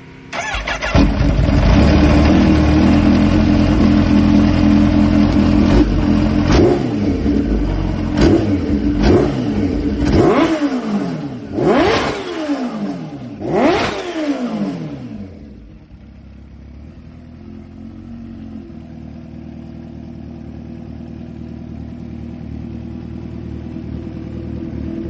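Kawasaki Ninja H2's supercharged inline-four engine running loud and steady, then revved sharply three times, each rev climbing fast and falling back. About fifteen seconds in it drops to a quieter, steady idle.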